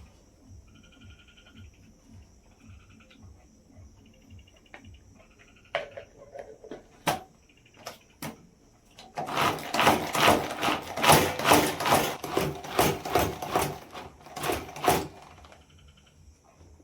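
Steady high insect trilling with short pulsed chirps. From about nine seconds to fifteen seconds a loud run of rapid, irregular clicks and scrapes, with a few single sharp knocks before it.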